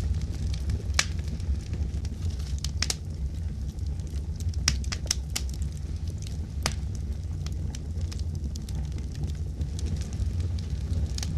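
Wood fire burning in a fireplace: a steady low rumble of flames with irregular sharp crackles and pops scattered through, a few of them standing out clearly.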